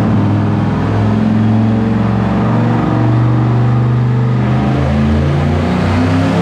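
Turbocharged LS V8 engine running loud on a dyno, its pitch shifting up and down.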